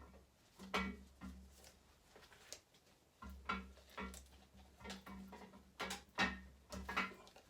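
Irregular metallic clicks and knocks as a camshaft is slid by hand through the cam bearings of a Chevy V8 block.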